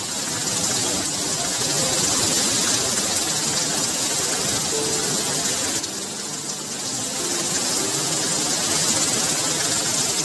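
Heavy rain falling steadily on foliage and roofs, with a stream of runoff pouring off a roof edge. It eases briefly about six seconds in.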